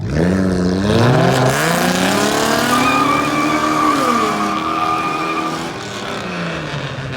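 A car engine revving hard, its pitch climbing over the first few seconds and falling away again near the end, with a high steady squeal in the middle.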